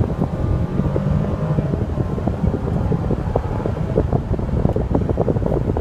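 Inside the cabin of a Mercedes-Benz SL550, with its turbo V8 running low and a fan blowing steadily. Many small clicks and knocks run through it.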